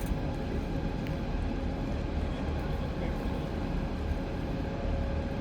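Steady outdoor background noise: a low rumble with a faint steady hum and a murmur of distant voices.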